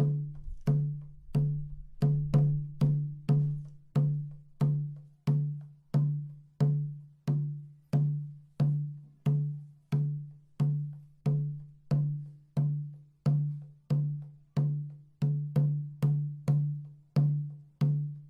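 A single drum struck in a steady, even beat, about three strokes every two seconds, each a short low thump with a sharp attack that dies away quickly.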